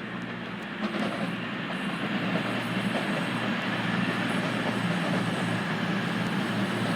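A diesel train running through the station, its engine note steady under a broad wash of rail noise, getting a little louder about a second in.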